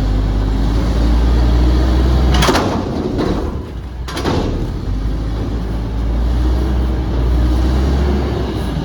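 Front-loader garbage truck's engine running with a heavy low rumble, broken by two loud bangs about two and a half and four seconds in.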